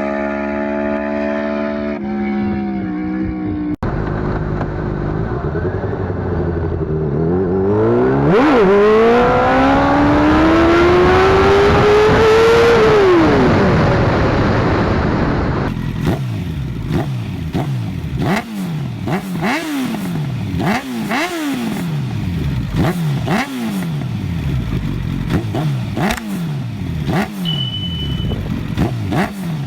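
Sportbike engines through aftermarket exhausts. At first one runs with a steady note. Then one accelerates hard past with a long rising engine note that falls away. Then one is revved again and again in quick throttle blips, about one a second, with sharp crackles from the exhaust.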